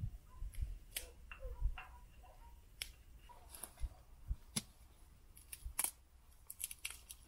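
Campfire crackling: irregular sharp snaps and pops at uneven intervals, with a low rumble underneath.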